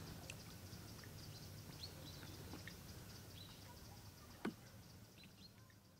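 Faint outdoor ambience: small birds giving short scattered chirps over a low steady hum, with one sharp falling chirp, the loudest sound, about four and a half seconds in. The sound fades down near the end.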